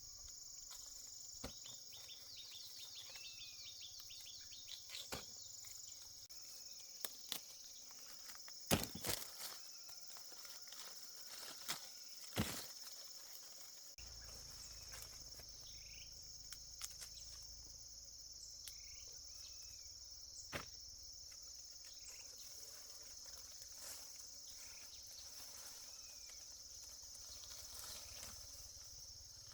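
Steady high-pitched chorus of insects, with scattered sharp clicks and knocks, the loudest about nine and twelve seconds in.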